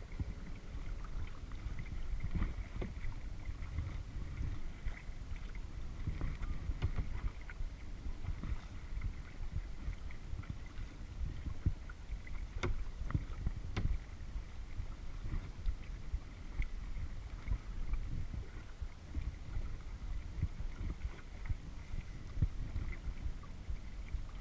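Kayak paddling on a lake: paddle blades dipping and splashing water, over a steady low rumble, with a few sharp knocks in the middle.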